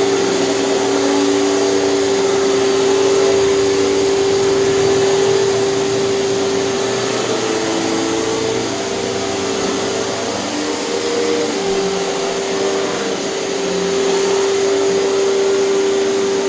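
Hoover canister vacuum cleaner running steadily, its motor giving a constant whine over a rushing air noise, a little quieter for a few seconds in the middle.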